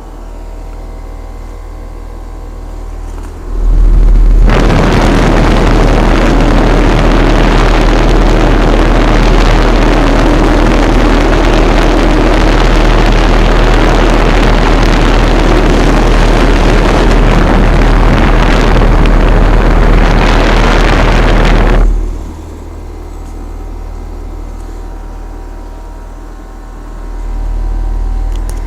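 Bryant Evolution two-stage heat pump outdoor unit running in heating mode, its coil icing over: a steady hum of compressor and fan. From about four seconds in, a much louder rushing noise covers the hum for about 18 seconds, then cuts off suddenly.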